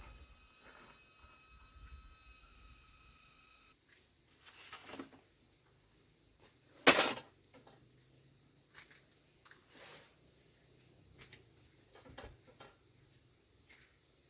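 Steady high-pitched insect drone, with scattered light knocks and one loud, sharp knock about halfway through.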